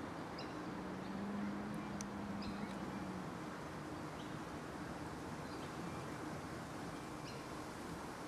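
Steady outdoor background noise with a low hum, which grows stronger for about two seconds starting a second in, and a few short, faint, high chirps scattered through.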